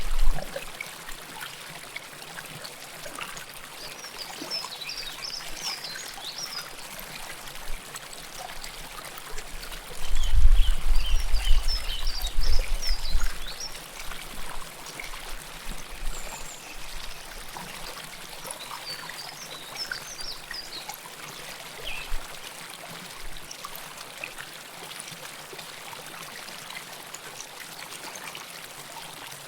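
River water flowing close up, a steady rush of running water. Bursts of short high chirps come and go over it, and a deep low rumble swells for about three seconds around ten seconds in.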